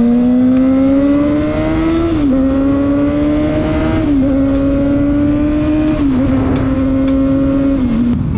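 Kawasaki ZX-6R inline-four sportbike engine accelerating through the gears: the engine note climbs, then dips with each of four upshifts about two seconds apart, over steady wind rush on the microphone.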